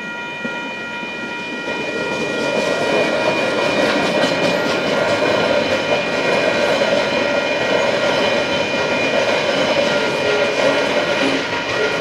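Container wagons of a freight train rolling over a level crossing: a steady rumble with clicks from the wheels, building about two seconds in and easing near the end. Over it the crossing's warning bells ring with a steady high tone.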